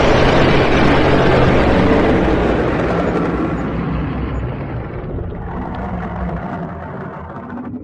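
Dragon sound effect: a long, loud rushing blast of noise over a low rumble, strongest at the start and slowly fading away over about eight seconds.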